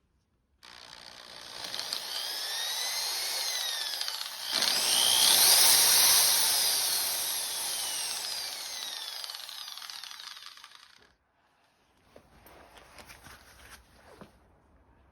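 A power tool runs for about ten seconds, its whine sweeping up and down in pitch as it works, loudest in the middle, then stops. A few faint clicks and knocks follow.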